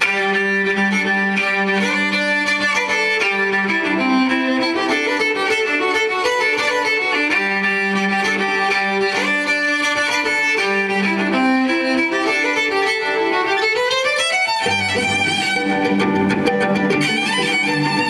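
Violin playing an instrumental passage of held and moving notes. Near the end, a long upward slide, and then a deeper low note comes in under the melody.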